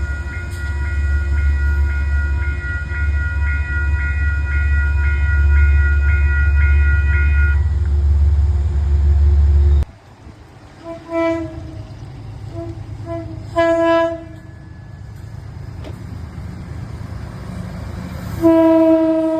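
Passenger train rumbling past at a grade crossing, with a steady ringing of regular strokes over it, likely the crossing bell. The rumble cuts off abruptly about halfway, then the train horn sounds several short blasts and a longer, louder blast near the end.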